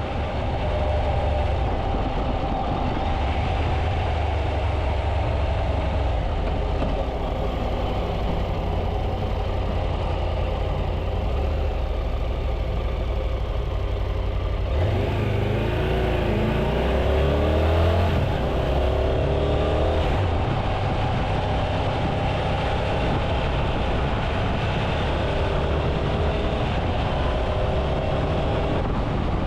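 Triumph Tiger 800 motorcycle's inline-three engine running steadily on the road. About halfway through, its pitch rises and falls for a few seconds as it revs and shifts, then it settles back to a steady cruise.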